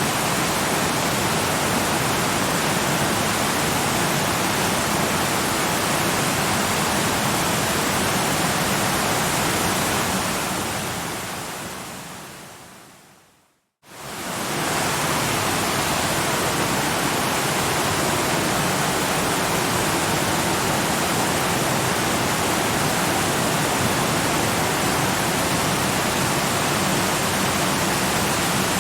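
Steady rushing of a waterfall. About halfway through it fades out slowly to a brief silence, then quickly fades back up.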